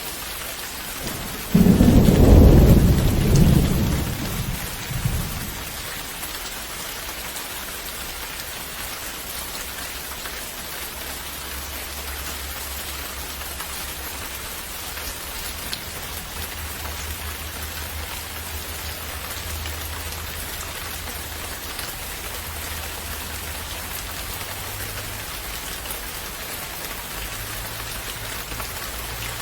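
Steady rain with a loud clap of thunder about a second and a half in that rumbles away over the next few seconds. A faint low rumble sits under the rain in the second half.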